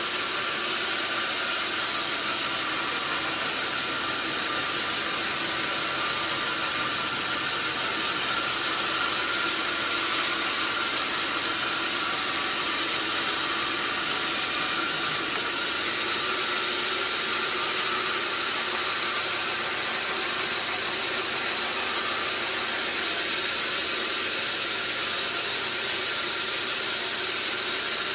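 Sawmill saw cutting a hardwood log: a steady, unbroken hissing noise with a thin high whine.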